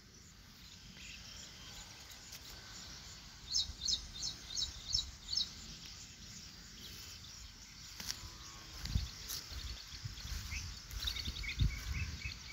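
A small bird chirping a quick run of about seven high notes a few seconds in, and again near the end, over faint outdoor ambience with a few low thumps.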